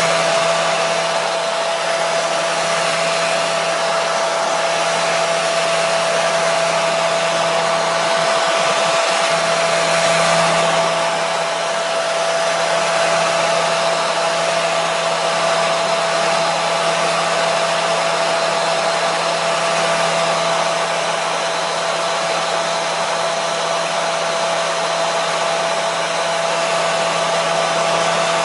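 Hair dryer running steadily: a continuous blowing rush with a steady motor whine.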